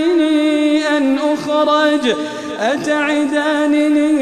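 A man's voice chanting Quranic recitation in melodic tajweed style, drawing out long ornamented notes that slide in pitch. There is a brief dip in level a little past halfway.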